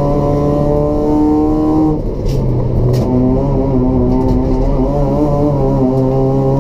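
Race-built Toyota Etios 1.5 L petrol engine with a free-flow exhaust running hard at steady revs. About two seconds in the note breaks off and two sharp clicks come, as on a lift and gear change. The engine then comes back at lower revs and slowly climbs again.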